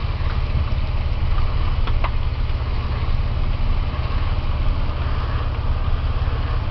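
Car engine running with a steady low rumble, heard from inside the vehicle.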